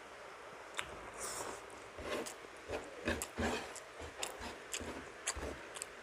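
Close-up sounds of a person chewing and biting soft stewed milkfish, with irregular wet mouth smacks and small clicks.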